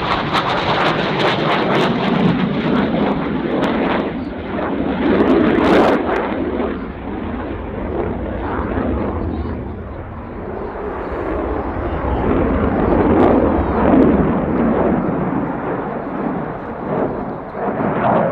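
Dassault Rafale fighter jet's twin Snecma M88-2 afterburning turbofans, a loud continuous jet roar that swells twice and eases between, as the aircraft flies its display passes.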